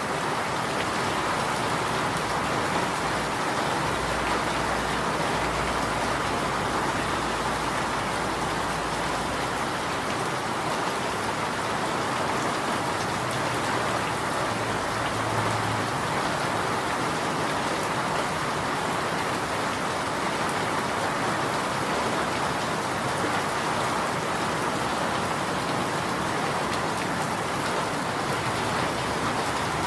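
Steady rain falling, an even hiss with a faint low rumble underneath for a few seconds near the start.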